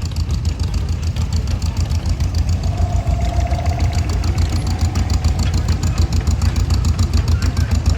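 Vintage John Deere two-cylinder tractor engine running at low speed, with a steady, rapid exhaust beat.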